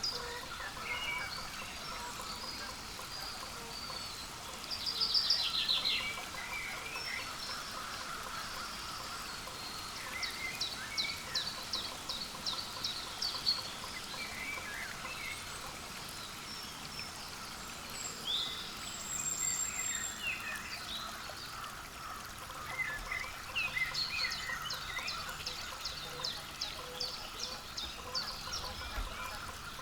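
Wild birds calling: small birds give repeated runs of quick high notes several times, over a steady chorus of lower calls.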